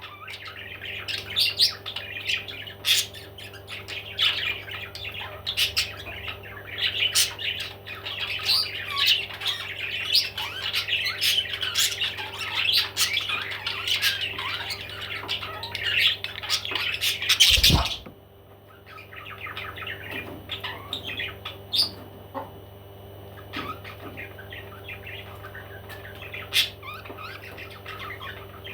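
Parrots chattering and squawking with dense, rapid calls. About 18 seconds in there is a sharp knock, after which the calls are sparser and quieter. A steady low hum runs underneath.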